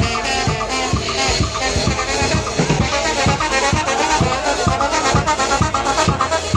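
Live brass band, trumpet and trombone, playing an upbeat tune over a steady, fast drum beat.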